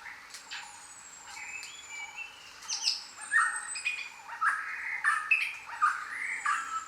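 Jungle birds calling together, with thin high whistles throughout. From about three seconds in, one bird gives a run of loud, short repeated notes, roughly two a second.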